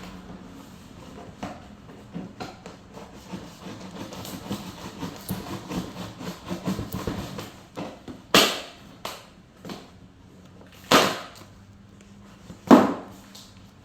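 Packaging being handled while a sack-closing sewing machine is unboxed: soft rustling and small clicks, then three loud, short, sharp noises in the second half.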